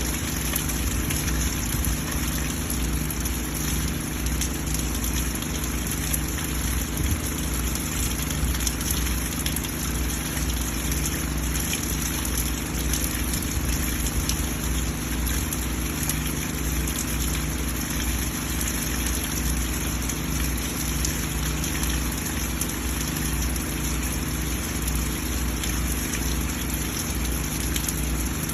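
Rainwater running and splashing off a rain chain in steady rain, a continuous pouring and splashing with many small drips and a low rumble underneath.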